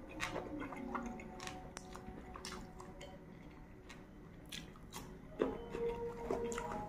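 Close-up wet chewing of puri and beef keema with the mouth closed, a series of small clicks and smacks. Faint steady tones run in the background and grow a little louder near the end.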